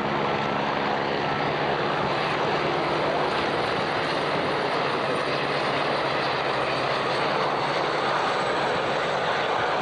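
Aircraft engine noise at an airshow display: a loud, steady rushing sound, with a humming engine tone that fades out about a second in.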